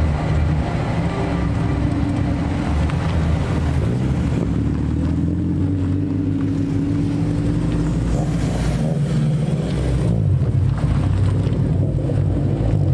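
Car engines running as modified cars drive slowly past, a steady low engine note that shifts a little partway through.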